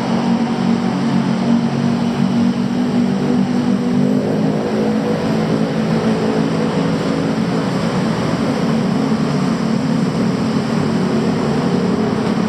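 City street traffic dominated by the steady drone of a nearby idling engine, a little fuller in tone from about four seconds in.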